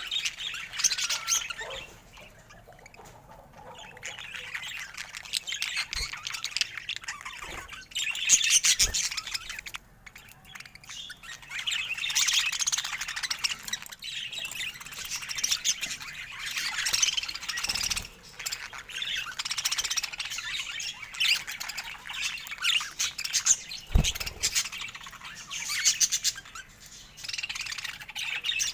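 Budgerigars chattering: rapid warbling chirps and squawks that keep going almost without a break, dipping briefly twice. A few dull low thumps sound under the chatter.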